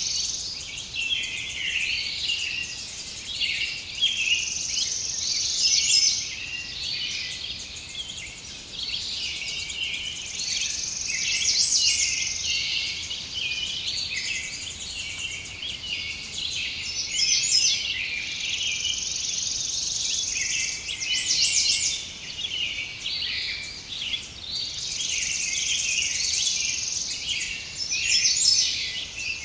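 Several birds chirping and singing over one another, mixed with a high insect trill that swells every few seconds.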